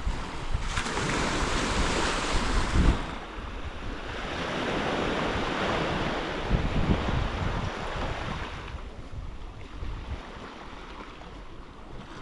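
Sea waves breaking and washing up the shore in two long hissing swells, the second dying away about two-thirds of the way through, with wind buffeting the microphone.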